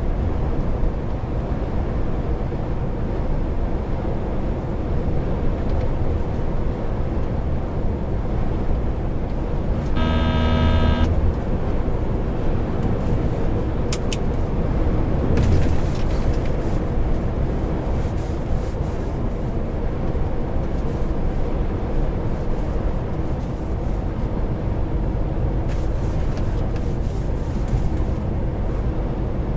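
A lorry's engine and road noise droning steadily while driving. About a third of the way in, a single pitched tone sounds for about a second.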